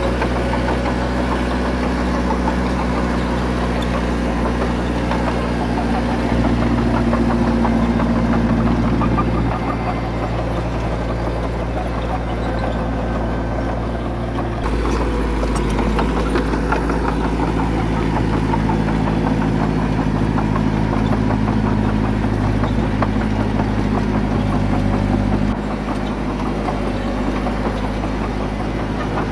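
Bulldozer's diesel engine running under load. Its note steps up and down several times, louder from about six seconds in and again from about fifteen seconds in, then drops back near the end.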